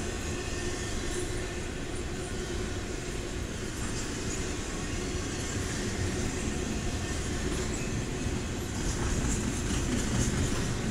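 Double-stack intermodal freight train rolling past on well cars: a steady rumble and rattle of the cars, with occasional wheel clacks. It grows slightly louder near the end.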